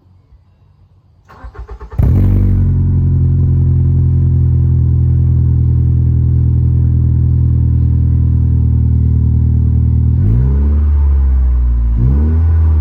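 Ford Fusion engine cranked on the starter for under a second, catching and settling into a steady idle. Near the end the throttle is blipped twice, the revs rising and dropping back each time.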